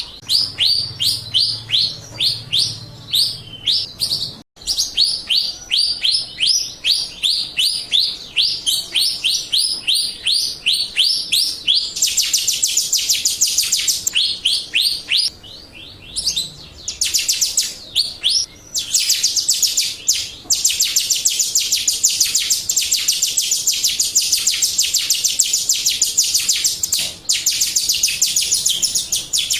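Song of a Jalak Rio starling, the kind of recording used as a lure to make caged birds answer and sing. It is a run of high, quickly falling chirps about three a second, turning about twelve seconds in into a fast, continuous high trill with a few short breaks.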